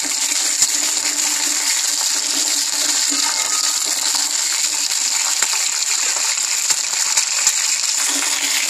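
Cut drumstick pieces sizzling steadily in hot oil in a kadai, with a steel spatula scraping and clinking against the pan as they are stirred and sautéed.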